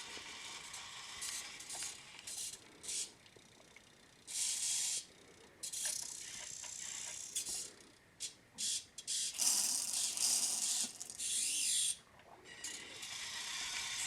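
Electric drive motor and plastic gearbox of a Siku Control remote-controlled Mercedes-Benz model truck whirring in short stop-start spurts, with a longer run in the second half.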